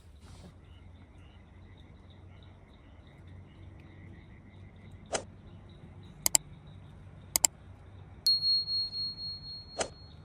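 Faint steady high chirping with a few sharp clicks, some in quick pairs, then a single high chime-like tone that starts loud and pulses as it fades over about two seconds.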